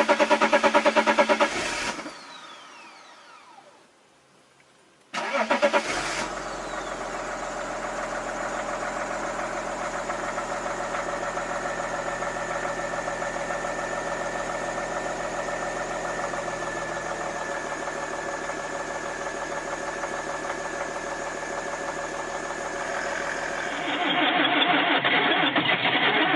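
Diesel engines cold-starting and idling. A running engine drops away about two seconds in. After a short near-silence another diesel catches suddenly about five seconds in and settles into a steady idle. Near the end a different, louder engine takes over.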